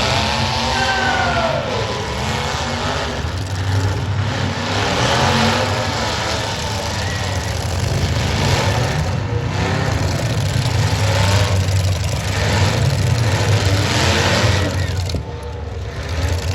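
Demolition derby cars' engines running and revving together, several pitches rising and falling over one another.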